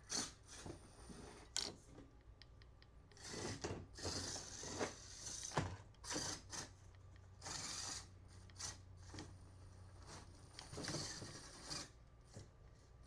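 Scale RC rock crawler working its way over course obstacles: repeated bursts of scraping and rubbing from tyres and chassis against the obstacles, with scattered sharp clicks and knocks between them.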